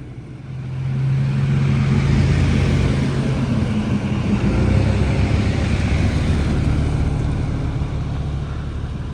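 Off-road vehicle's engine running and its tyres rolling over a dry dirt trail. The sound swells about a second in, holds steady, then eases off slowly near the end.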